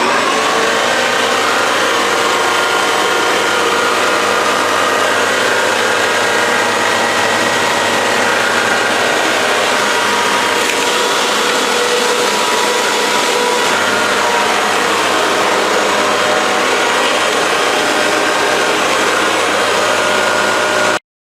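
Upright bagless vacuum cleaner running steadily at full power, a loud even whir and hiss with a mix of motor tones; it cuts off suddenly near the end.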